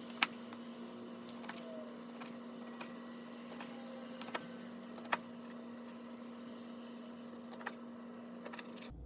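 Scattered light clicks and taps of kitchen utensils over a steady hum.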